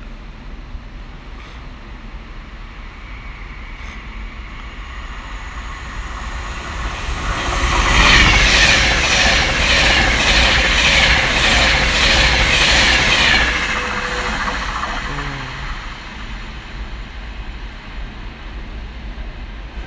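An Avanti West Coast intercity train passing through the station at speed without stopping. A rising rush as it approaches, a loud rhythmic clatter of wheels on the rails about eight seconds in that lasts some five seconds, then a fade as it runs away.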